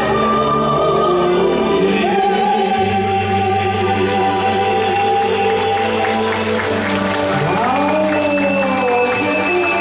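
Live singing over a backing accompaniment, with long held notes above a steady bass and sustained chords. A voice slides up and down over the last few seconds.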